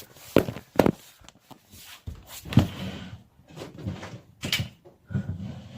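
Several scattered knocks and clunks, with quieter rustling between them, from things being handled and moved about.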